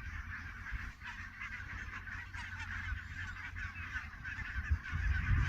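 A large flock of barnacle geese calling: a dense, unbroken chatter of many overlapping calls, over a low rumble.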